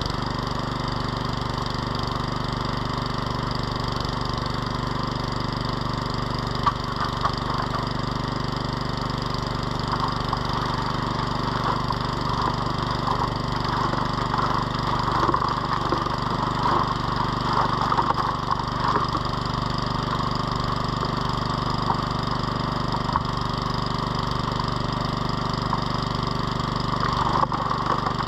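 Small engine-driven water pump running steadily to feed a high banker sluice, with gravel and water rattling and crackling as material washes through. The rattling grows busier partway through.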